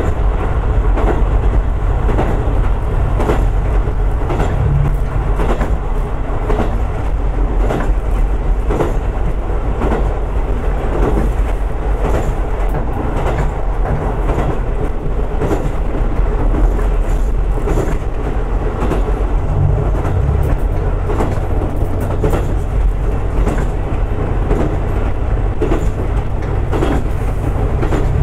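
Single diesel railcar running along the track, heard from inside the car: a steady low engine and running rumble, with the wheels clicking over rail joints.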